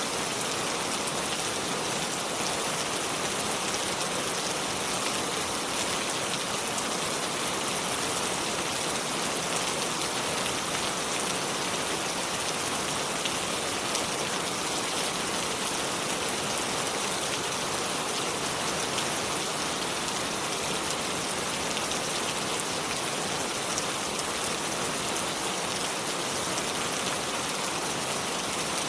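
River water flowing over stones: a steady, even rush and splash that does not change.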